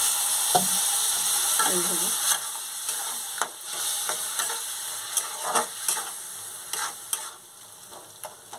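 Onion-tomato spice masala sizzling in hot oil in a kadai just after a splash of water, while a metal spatula stirs and scrapes it around the pan. The sizzle is loudest at first and dies down steadily as the water cooks off, and the scrapes of the spatula come through more clearly toward the end.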